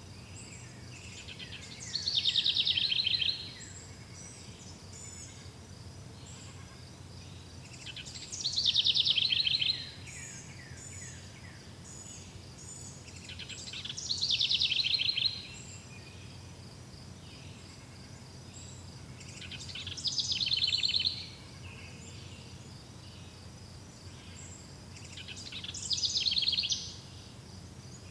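A songbird repeating the same short, rapid trilled song about every six seconds, five times, each phrase sliding down in pitch. Under it runs a steady high chirring of insects.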